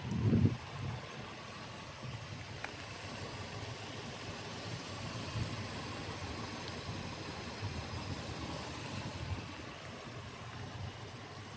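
A 2012 Volkswagen Sharan's 1.4 TSI petrol four-cylinder idling steadily and quietly. A short, louder low rumble comes in the first half second.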